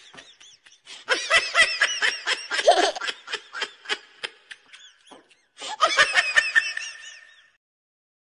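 High-pitched, hysterical laughter in rapid pulses, in two bouts with a short break just after the middle, stopping a little before the end.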